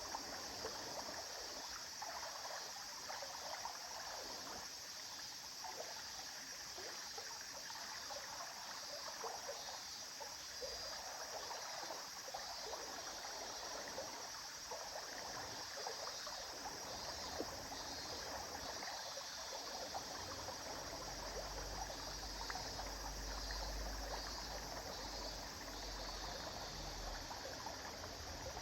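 River water flowing and trickling over stones, a steady babble with small splashy crackles. A low rumble joins underneath about two-thirds of the way through.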